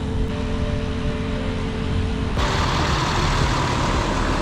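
Wind and road noise from riding a bicycle, with a dense low rumble. A louder hiss comes in suddenly about halfway through.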